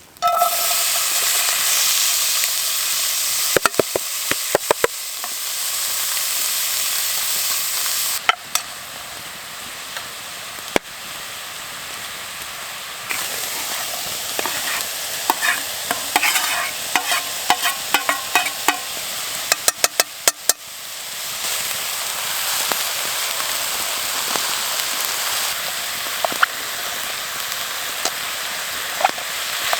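Food sizzling in a Dutch oven over a campfire, a steady hiss, with bursts of quick clicks and scrapes from stirring several times.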